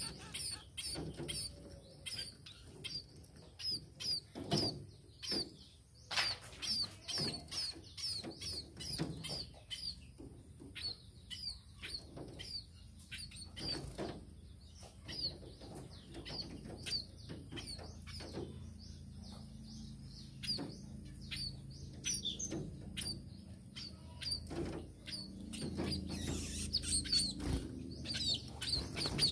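Tame munias (burung pipit) chirping: a steady run of short, high chirps, about one or two a second, mixed with fluttering and light clicks.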